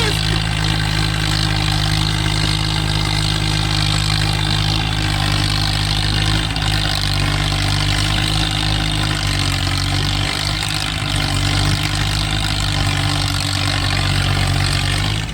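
Swaraj tractors' diesel engines running hard under heavy load, straining against each other in a tractor tug-of-war. The sound is loud and steady, with a slight drop in engine pitch about nine seconds in.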